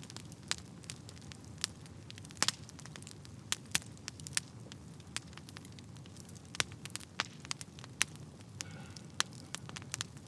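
Fire burning in a fireplace: irregular sharp crackles and pops, with a few louder snaps, over a low steady rumble of the flames.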